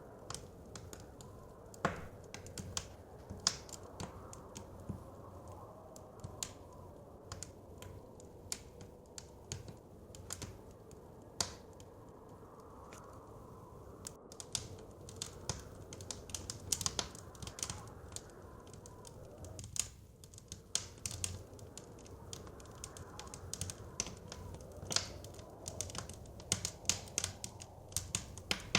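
Wood fire crackling, with irregular sharp pops and snaps that come thicker in the second half, over a soft, low rush of blizzard wind.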